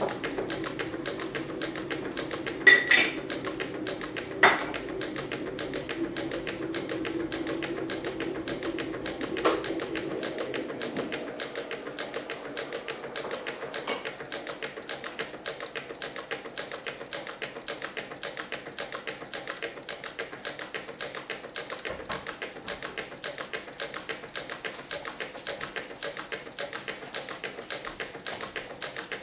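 Meccano-built Stirling engine running, its metal crank linkages and gears clattering in a rapid, steady ticking, with a few louder clicks in the first ten seconds and a low hum that fades out about ten seconds in.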